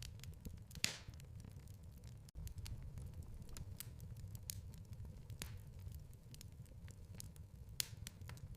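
Wood fire crackling in a fireplace: scattered sharp pops over a low, steady rumble, with two louder pops, about a second in and near the end. The sound cuts out for an instant a little over two seconds in.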